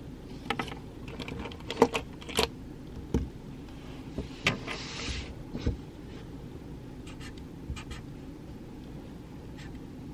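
Study-room ambience: a steady low room hum with scattered light taps and clicks of desk work and stationery, and a brief rustle about halfway through.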